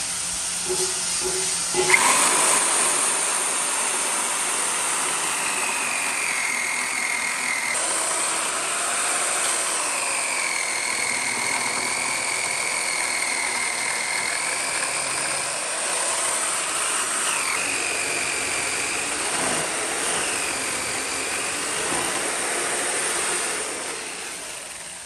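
Power tool working wood, a steady hiss with a whine that dips and rises in pitch as the load changes. It starts sharply about two seconds in.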